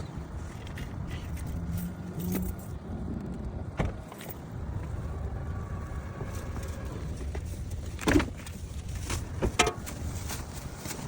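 Steady low rumble of a car, with a few sharp clicks and knocks over it, the loudest a little after eight seconds in.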